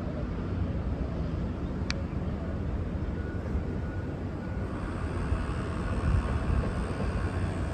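V/Line VLocity diesel train approaching: a steady low rumble, joined about halfway through by a rising hiss. A single sharp click about two seconds in.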